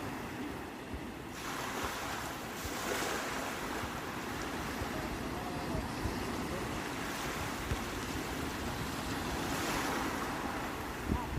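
Sea waves surging and washing in, the rush of surf swelling louder twice, with wind rumbling on the microphone.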